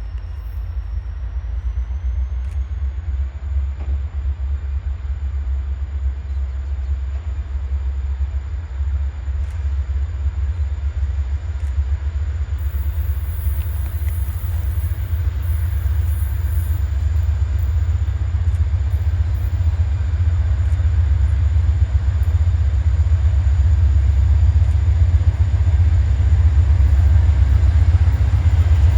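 A train's low rumble, growing steadily louder as it approaches.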